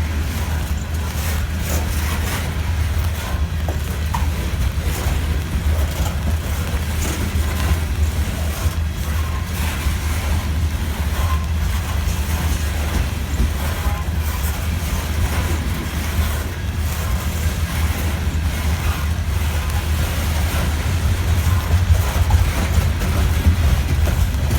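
Freight train rolling past with a steady low rumble from its cars on the rails, and a few faint clicks.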